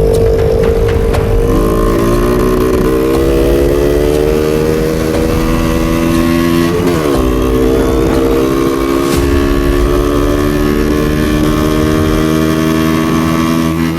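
A motorcycle with a modified aftermarket exhaust running under way. Its engine note jumps up about a second and a half in and then climbs slowly, drops briefly about seven seconds in as with a gear change, and picks back up to a steady pitch.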